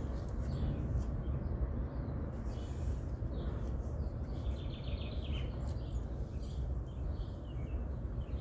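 Birds chirping, with one quick trill of repeated notes about five seconds in, over a steady low rumble.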